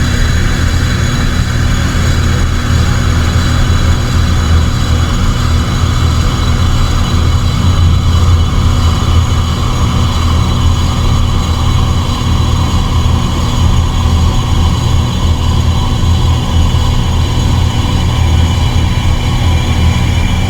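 Dark ambient electronic drone: a loud, steady low rumble under sustained high tones, with a band of hiss slowly falling in pitch.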